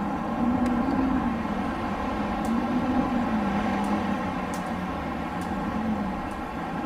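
Wind blowing steadily, with a low moaning tone that swells and falls several times.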